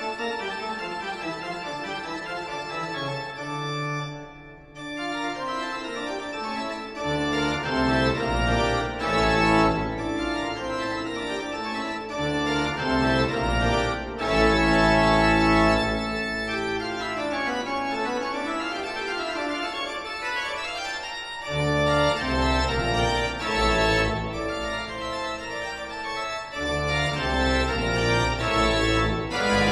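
Live surf rock band playing: electric guitars over drums, the bass and drums kicking in about a quarter of the way through and dropping out briefly twice near the end.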